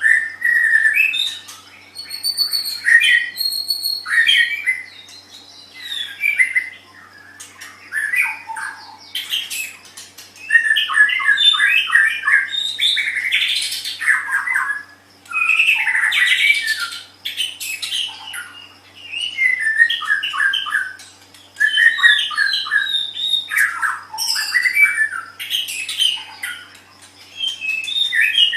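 White-rumped shama (murai batu) singing varied phrases of rapid repeated notes, whistles and sweeps, in bursts of a second or two with short pauses between.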